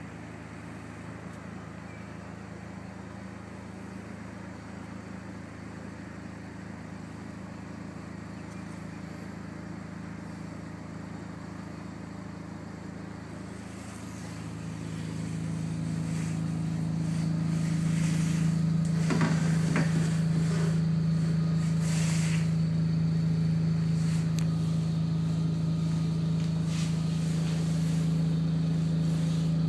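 A large engine running steadily with a low hum that swells about halfway through and then holds at a louder level, with a few short knocks soon after.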